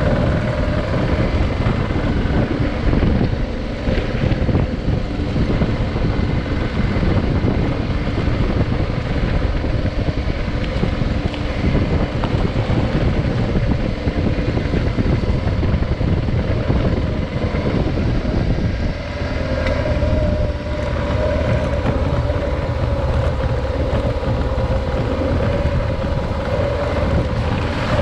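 Adventure motorcycle engine running steadily under way, with its pitch wavering a little about two-thirds of the way through, mixed with heavy wind noise on the microphone.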